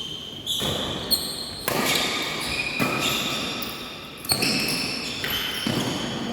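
Badminton rally in a large hall: the shuttlecock is struck by rackets about once a second with sharp, echoing hits, and short high squeaks from shoes on the court floor come between the strokes.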